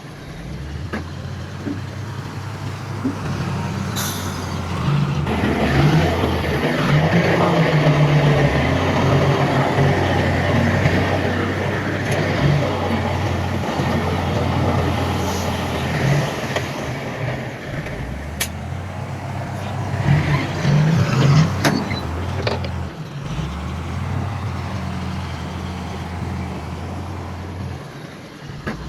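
Heavy diesel engines of earthmoving machinery running steadily. The sound grows louder for several seconds near the middle and again later, with a few sharp clanks.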